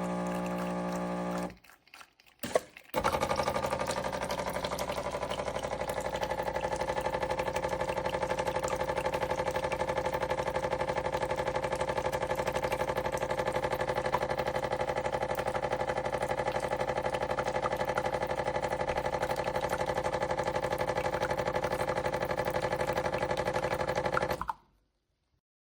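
De'Longhi La Specialista Opera espresso machine running with a steady mechanical hum and a fine rapid buzz for about twenty seconds, then stopping suddenly. A click comes just before it starts.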